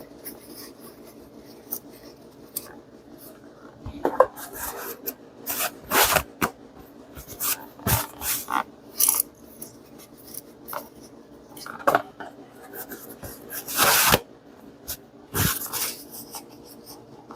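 Irregular clicks, taps and short scrapes of hand tools and parts being handled on an engine, during work on an ignition coil and spark plug, with a faint steady hum underneath.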